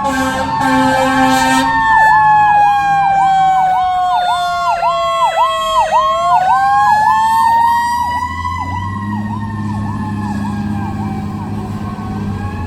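Fire apparatus warning devices: a horn blast for the first second and a half, then an electronic siren yelping rapidly over a slower wailing siren that falls, climbs again about six seconds in and then slowly sinks. A low diesel engine rumble comes up in the last few seconds.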